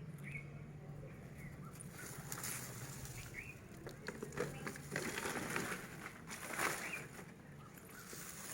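Potting soil being rustled and scraped by hand, loudest about halfway through, with short bird chirps now and then.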